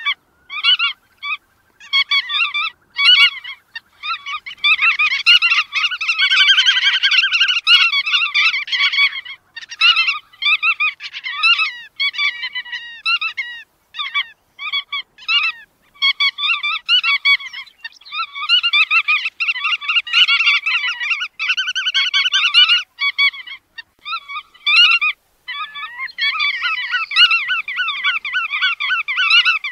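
Bar-tailed godwits calling: quick runs of short, repeated high calls broken by brief pauses, at times several birds overlapping into dense flock chatter.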